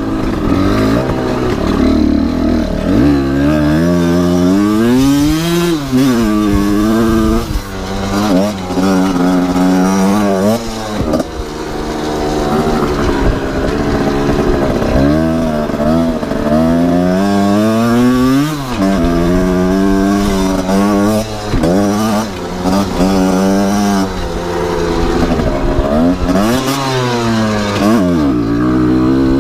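Kawasaki KR two-stroke engine in a dirt bike revving up and falling back again and again, its pitch climbing for a second or two and then dropping.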